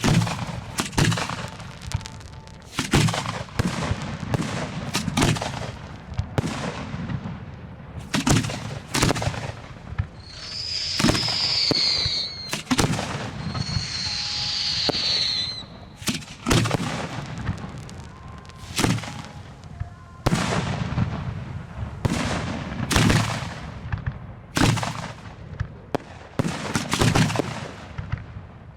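Fireworks display heard close to the launch site: a rapid, irregular series of sharp bangs from shells firing and bursting. About ten seconds in, and again about thirteen seconds in, a high whistling tone rises over the bangs for about two seconds, falling slightly in pitch.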